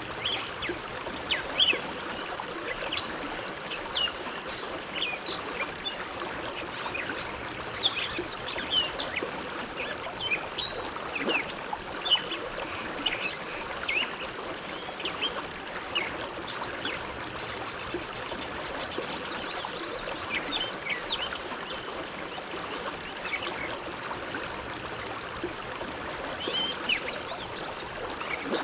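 The Bow River flowing: a steady rush of water with many small splashes and gurgles scattered through it.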